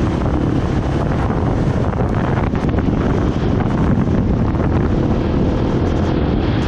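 Heavy wind buffeting on the microphone of a moving enduro motorbike, with the engine running steadily underneath.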